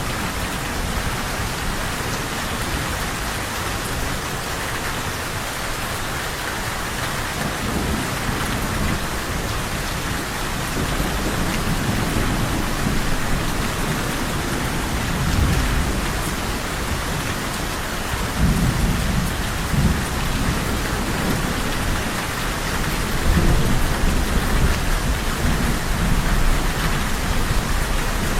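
Steady rain falling, with low rolling thunder that builds about a third of the way in and swells several times in the second half.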